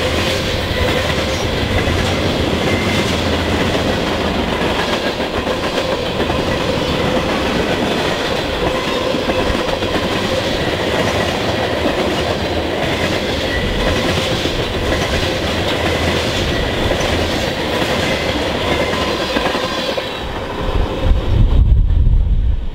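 Freight train's covered hopper cars rolling past close by: a steady rumble with wheels clacking over rail joints and a faint ringing tone from the wheels on the rails. About twenty seconds in, the last car passes and the rail noise falls away, leaving wind buffeting the microphone.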